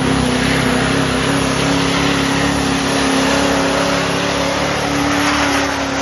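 Pulling truck's engine held wide open at high, steady revs while it drags the sled, sagging slightly near the end.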